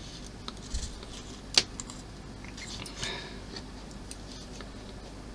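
Small model-kit parts being handled at close range: light clicks and rustling, with one sharp click about one and a half seconds in, as a fiddly piece is worked over its mounting lugs.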